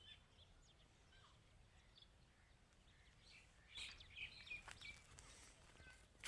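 Faint outdoor background noise with scattered short bird chirps, busier in the second half, and a few faint clicks.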